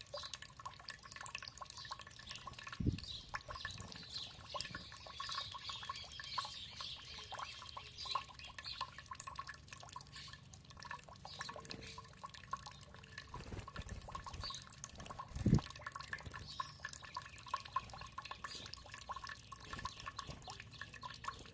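Water trickling and dripping in a steady patter of small splashes, with songbirds chirping and warbling over it. Two dull low thumps stand out, about three seconds in and again louder about fifteen seconds in.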